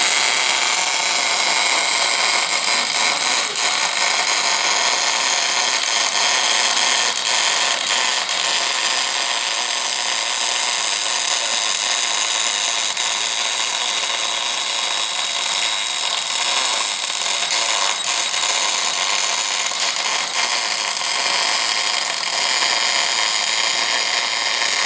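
Orbital bore welder running a MIG welding arc as its torch turns inside a cast-iron bore: a steady, loud frying hiss with a faint machine hum under it.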